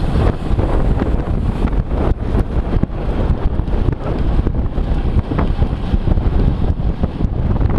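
Wind buffeting a moving camera's microphone: a loud, uneven rumble and hiss that gusts continuously.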